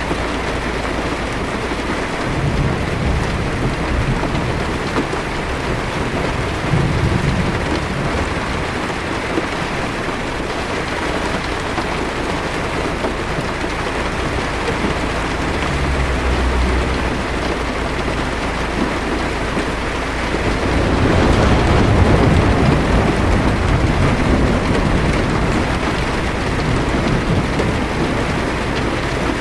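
Heavy rain beating steadily on a car's roof and windshield, heard from inside the car, with low thunder rumbling now and then; the biggest rumble swells up about three quarters of the way through.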